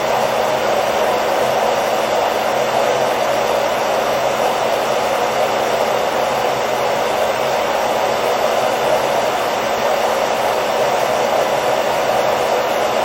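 Hairdryer running continuously at a steady speed: an even, unbroken whooshing hum with no changes.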